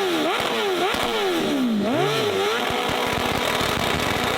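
A car engine revved in quick throttle blips, three or four in the first two seconds, each rising sharply in pitch and falling back, after which it settles.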